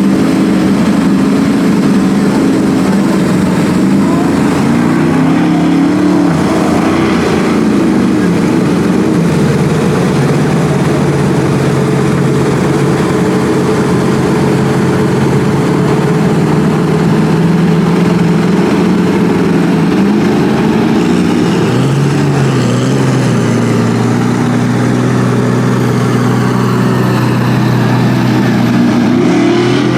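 Lifted Chevy mud truck's engine running hard under load, its pitch stepping down and back up as the throttle and gearing change, settling lower near the end.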